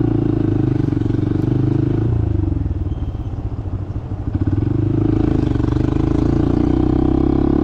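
Motorcycle engine running under way with a fine rapid pulse. It eases off about three seconds in, then picks up again about a second and a half later.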